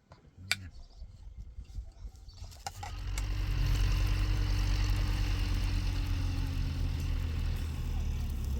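Tractor engine comes in about two and a half seconds in, then runs steadily with a low, even drone.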